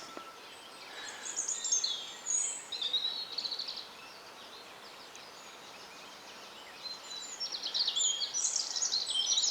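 Small songbirds singing: bursts of rapid, high-pitched trilled notes, one phrase from about one to three and a half seconds in and another starting about seven seconds in, over a faint steady outdoor hiss.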